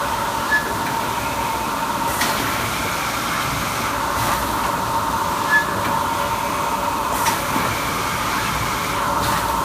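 Automatic four-row cup filling and sealing machine running: a steady mechanical hum with a held tone, broken by short clicks every two to three seconds as it cycles.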